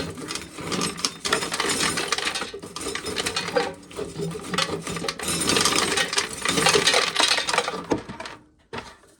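Corn sheller working an ear of corn, a dense clatter of kernels being stripped off and rattling down into a container; it stops near the end.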